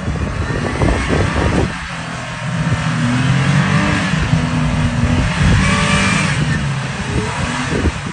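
Off-road vehicle's engine working under load, its pitch rising and falling, with a broad rushing noise and scattered knocks over it.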